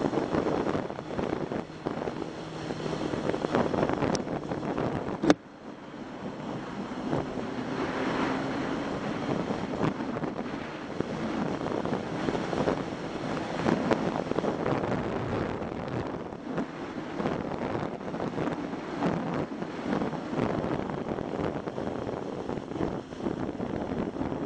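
Wind rushing over the microphone of a riding motorcycle, with the engine running underneath. A single sharp click comes about five seconds in, and the engine tone drops away briefly after it.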